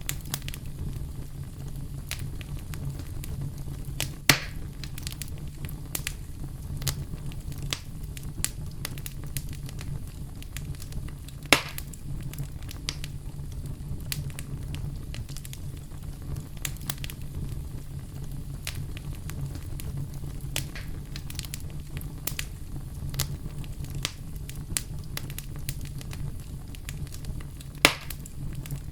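Campfire burning: wood crackling with many small scattered pops over a steady low rumble, and three louder, sharp pops spread across the stretch.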